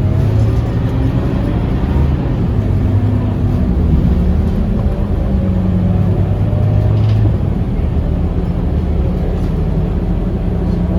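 Diesel engine of a Scania K230UB city bus, a 9-litre five-cylinder, running under way. Its pitch rises and falls a few times as the bus pulls and eases off.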